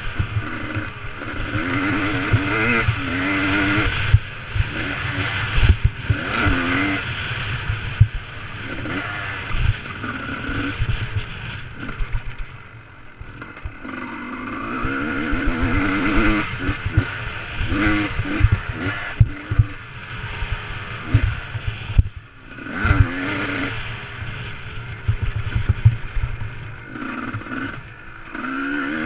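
Motocross bike engine revving up and falling back over and over as it is ridden, with knocks and rattles from the bike over rough ground. It backs off almost completely twice, about midway and again a little later.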